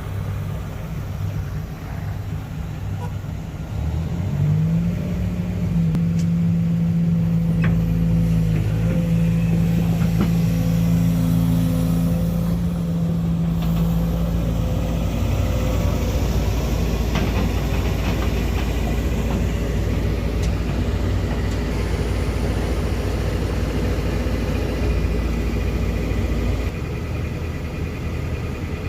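Heavy engine running steadily with a low rumble. About four seconds in, a tone rises and holds for about ten seconds before sinking back into the rumble.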